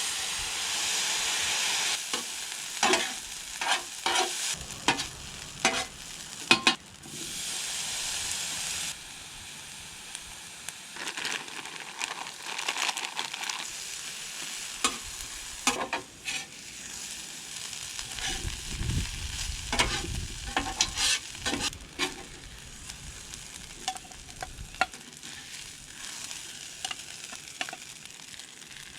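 Food sizzling in hot oil on a griddle while being stirred, with a metal spatula clacking and scraping against the cooking surface many times. The sizzle is loudest for the first two seconds and again from about seven to nine seconds in.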